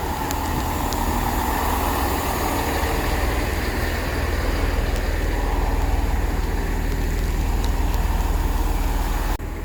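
Bus engine running close by: a steady low rumble that grows a little louder about halfway through and cuts off suddenly near the end.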